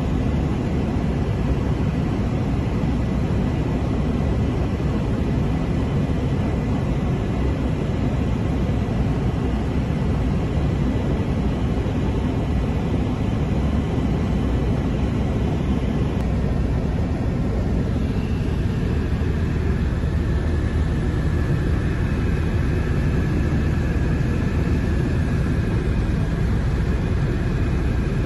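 Eurocopter Écureuil helicopter in flight: a steady drone of turbine and rotors with a thin whine that shifts in pitch about two thirds of the way through.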